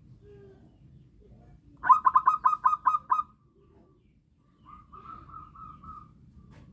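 Zebra dove (perkutut) cooing: a quick run of about eight loud staccato notes, then after a short pause a softer rolling trill.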